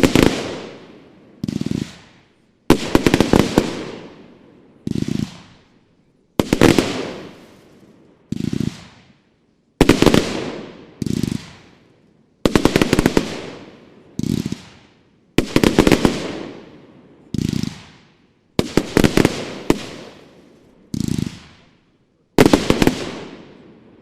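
Geisha Hardcore Helium firework being shot off one shot at a time: a dull launch thump, then about a second later a loud crackling burst that fades over a second or two, about eight bursts in a steady rhythm.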